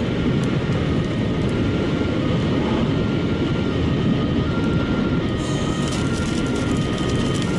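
Steady road and wind noise inside a car travelling at about 240 km/h. A brighter hiss joins it a little over halfway through.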